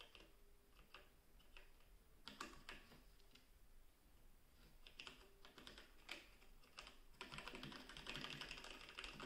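Typing on a Logitech G413 mechanical keyboard with Romer-G tactile switches, the key clicks quiet: a few scattered keystrokes at first, then fast continuous typing from about seven seconds in.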